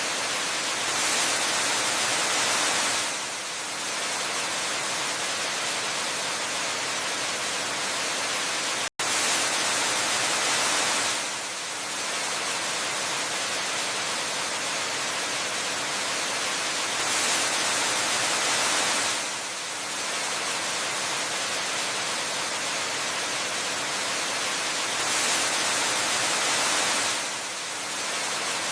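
Steady rushing hiss of a waterfall ambience, mostly high with little low rumble. It swells slightly louder for about two seconds roughly every eight seconds, and drops out for an instant about nine seconds in.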